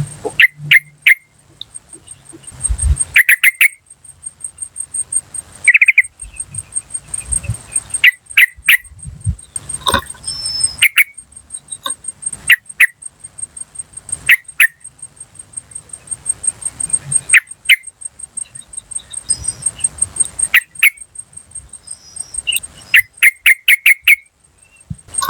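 Yellow-vented bulbul calling: short, sharp 'cuk' notes repeated in quick runs with pauses between them. An insect trills throughout in a fast, even pulse high above.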